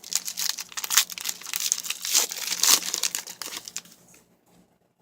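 Crackling foil wrapper of a trading card pack being torn open and crumpled in the hands, dense crinkling that dies away about four seconds in.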